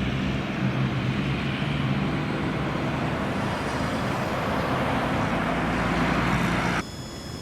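Steady engine roar with rushing air noise and a low drone, growing slightly louder, then cut off suddenly near the end, where a quieter sound with a few thin high tones takes over.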